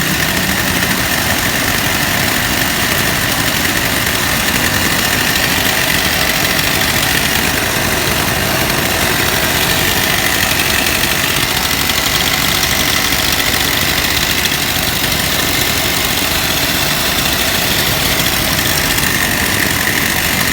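Husqvarna K-series two-stroke power cutter (cut-off saw) engine running steadily, with no revving or change in pitch.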